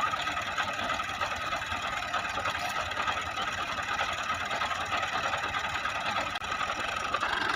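Fiat 480 tractor's three-cylinder diesel engine running steadily.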